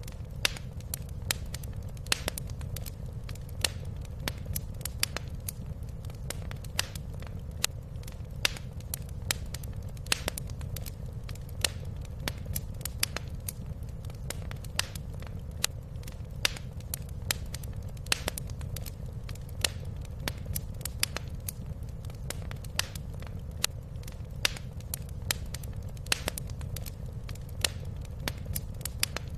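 Wood fire crackling in a fireplace: irregular sharp pops over a steady low rumble.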